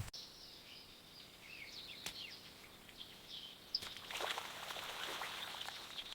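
Faint high bird chirps and short gliding calls, with a steady high-pitched tone joining in about four seconds in.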